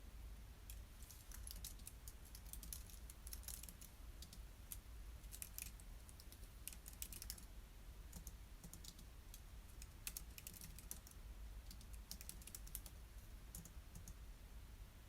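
Computer keyboard typing, faint, in short irregular runs of keystrokes with brief pauses between them, over a low steady hum.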